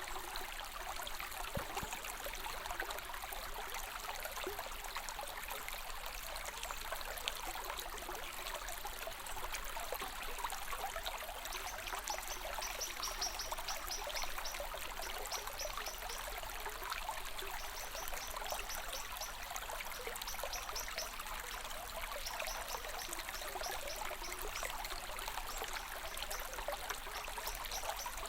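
Stream water flowing and trickling steadily. Faint, high, rapid chirping comes in short runs through the middle.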